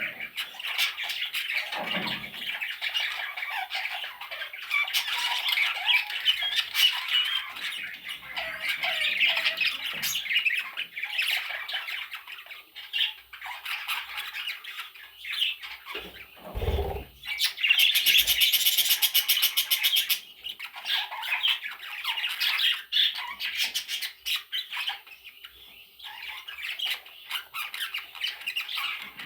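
Budgerigar chicks squawking and chattering continuously in shrill, overlapping calls, with a louder two-second run of rapid pulsed calls about two-thirds of the way through. A dull thump sounds just past halfway.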